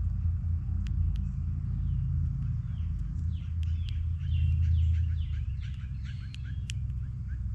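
Small songbirds chirping: a run of quick down-slurred notes starts about three seconds in, followed by rapid repeated short chirps. Under them runs a steady low rumble, loudest about two-thirds of the way through.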